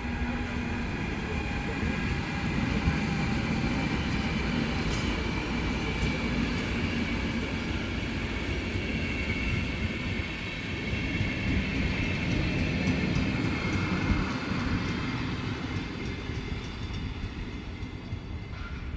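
Train running through a railway station: a steady rumble of wheels on track with a faint high whine over it.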